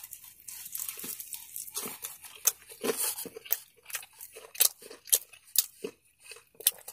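A person biting into and chewing a crispy fried chicken leg close to the microphone: irregular crunches and wet mouth clicks.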